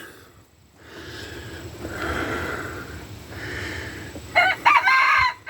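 A rooster crowing: a few short notes about four seconds in, then a long held note. Before it, a soft rushing noise swells and fades.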